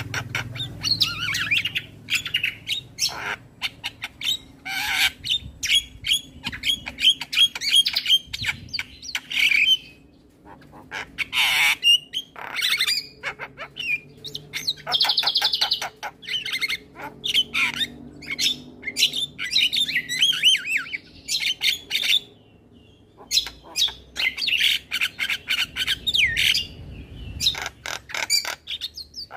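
Male Javan myna singing a long, varied song of harsh squawks, rapid clicking rattles and whistled, warbling phrases, with brief pauses about ten seconds in and again a little past twenty seconds.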